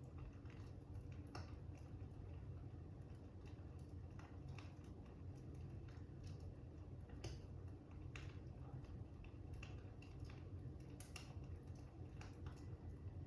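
Fire crackling faintly: irregular small pops and snaps over a steady low rumble.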